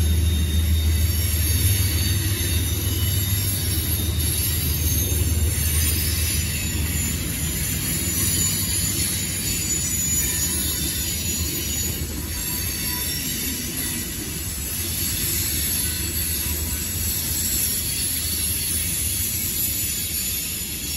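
Manifest freight train's cars rolling past, a continuous rumble of wheels on rail that slowly grows a little quieter.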